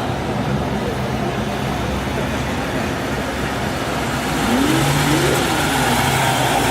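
Car engines running in steady traffic noise as vehicles drive past. About four and a half seconds in, a steady engine tone comes in and the sound grows a little louder.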